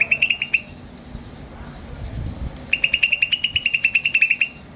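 A bird chirping in fast, even trains of short high notes, about ten a second: a brief run right at the start and a longer run of nearly two seconds in the second half.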